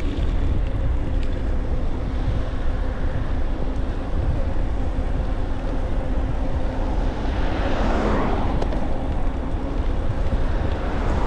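Wind rumbling on the microphone while riding an e-bike, steady throughout, with a faint steady hum underneath. About eight seconds in, a swell of rushing noise rises and fades.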